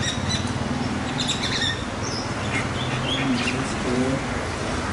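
Birds chirping and calling in short, scattered chirps over a steady low hum.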